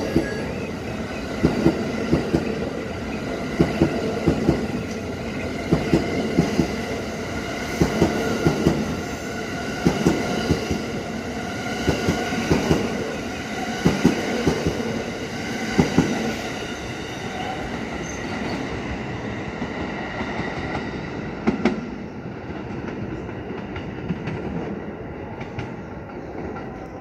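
Train running on jointed track: wheels clicking over rail joints in pairs about every two seconds, over a steady running hum with level tones. A little past halfway the clicks stop and the running sound gradually dies down.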